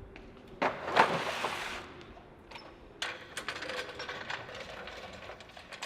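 Car jack and jack stand being set up under a car: a rough scraping rush about a second in, then a run of small metallic clicks and rattles.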